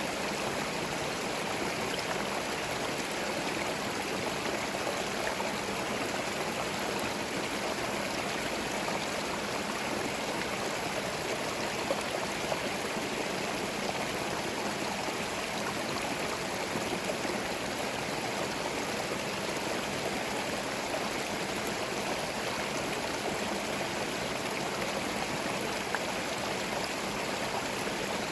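Small forest stream flowing and gurgling over stones in a steady rush of water, with no birds.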